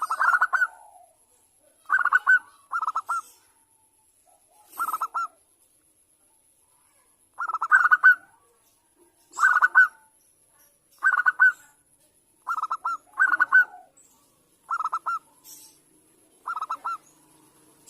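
Zebra doves (perkutut) calling: short bursts of fast, pulsed cooing notes, repeated every one to two seconds, some in quick pairs.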